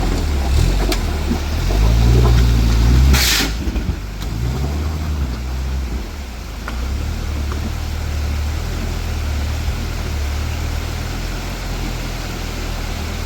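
Off-road 4x4 truck engine revving, loudest about two to three seconds in, with a brief sharp hiss just after. The engine then settles into steady low running.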